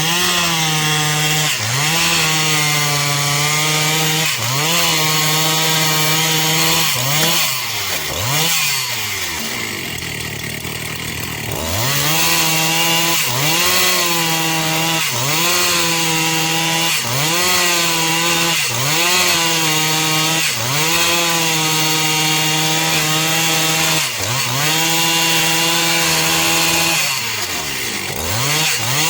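Chainsaw cutting slabwood off a eucalyptus log. The engine pitch sags and recovers every second or two as the chain bites. About eight seconds in it drops lower and quieter for a few seconds, then revs back up and resumes cutting.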